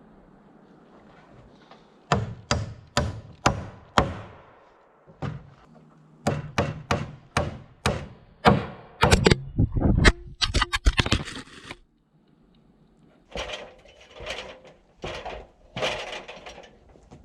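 Hammer blows on wood, in runs of sharp knocks about two a second, with a quicker flurry of strikes in the middle.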